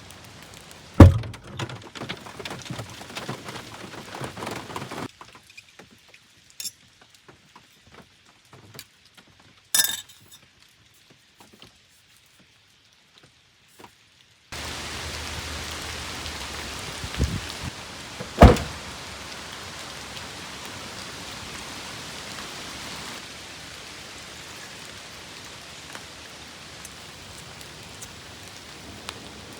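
Rain falling steadily, with a few sharp knocks, the loudest about a second in. For several seconds in the middle the rain drops away to scattered clicks, then it returns.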